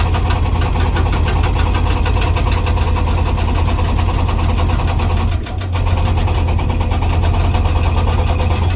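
Hydraulic rock breaker on a Komatsu PC200 excavator hammering hard rock in rapid, even blows over the excavator's steady diesel engine, with a brief let-up about five and a half seconds in.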